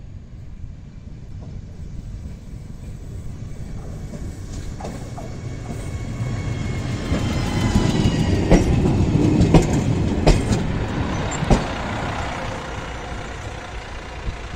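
Diesel railcar approaching and running past close by along the platform, growing steadily louder as it nears. Its wheels clack sharply over rail joints four times around the middle, and a faint high whine falls in pitch.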